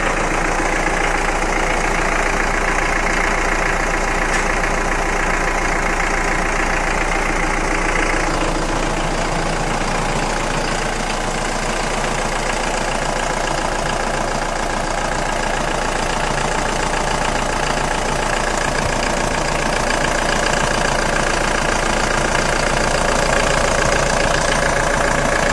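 A vehicle engine idling steadily, its tone changing slightly about eight seconds in.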